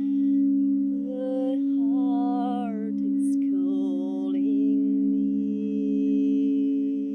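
Crystal quartz singing bowls sustaining two steady low tones that swell and fade in a slow, regular wobble. About a second in, a woman's voice sings a wordless, wavering melody over them, settling into a held note near the middle.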